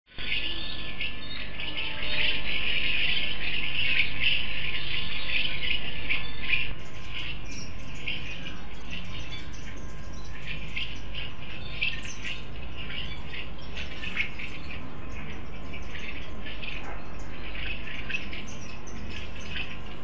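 Many small birds chirping and calling at once, a busy chatter that gets louder about two seconds in, then gives way to scattered separate chirps from about seven seconds on.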